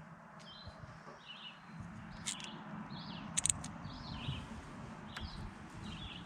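A songbird chirping over and over, short falling notes about one or two a second, over a low rumble. Two sharp clicks in the middle are the loudest sounds.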